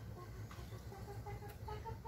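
Faint bird calls: short notes repeated in quick series, over a low steady hum.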